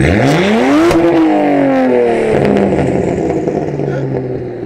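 BMW 135i's twin-turbo N54 3.0-litre straight-six, straight-piped, revved hard from idle. The exhaust note climbs steeply for about a second, then falls away slowly over the next few seconds, very loud.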